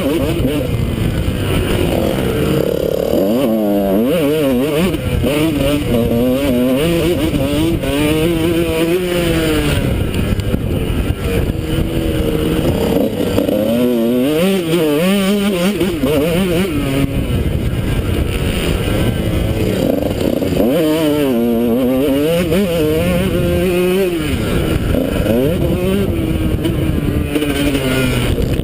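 Honda CR125 two-stroke single-cylinder engine revving up and falling back again and again, the pitch climbing through the gears and dropping off between bursts, over a steady rush of wind noise on a helmet-mounted camera.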